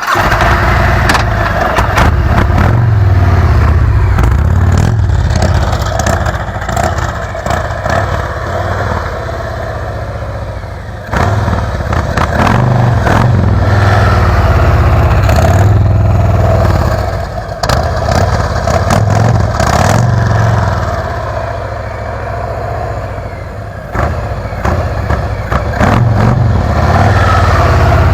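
Motorcycle engine running as the bike is ridden through a tight cone weave. It eases off several times as the bike slows to a stop, then pulls away again, with sharp rises in engine sound about eleven seconds in and again near twenty-four seconds. Clatter-like knocks run through it.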